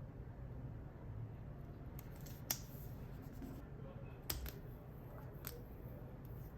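Scissors snipping through sticker sheets, a few short sharp snips spread over several seconds, over a faint steady low hum.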